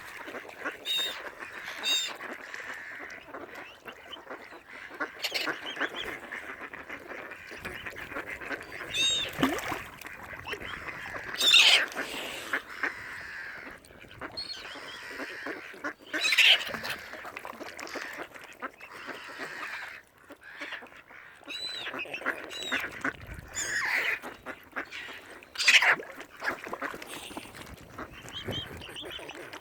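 A waterfowl flock calling, with short loud calls every second or two over a steady background chatter from the flock.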